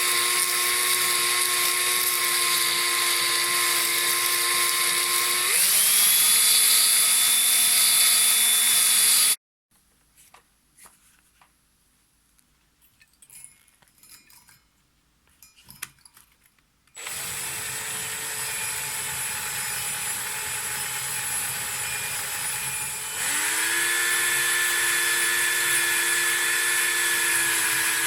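A small high-speed electric power tool running with a steady whine. Its pitch steps up about five seconds in, and it stops about nine seconds in. After some eight seconds of near silence with a few faint clicks, it starts again, and its pitch steps up once more near the end.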